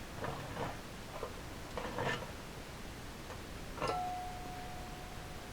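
Metal parts of a cast-iron bench-grinder pedestal stand clinking and knocking as they are handled. Near the end a sharper strike sets the metal ringing with one clear, steady tone that carries on.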